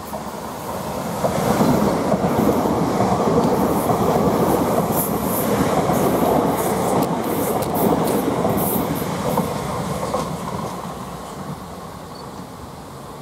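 Two coupled South Western Railway Class 458 electric multiple units passing through a station at speed. The rumble of wheels on rail swells about a second in, stays loud through the middle with sharp clicks, and fades as the train draws away near the end.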